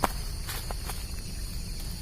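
A steady, high-pitched insect drone from the surrounding garden, with a sharp knock right at the start and a few light clicks from handling or footsteps around half a second to a second in.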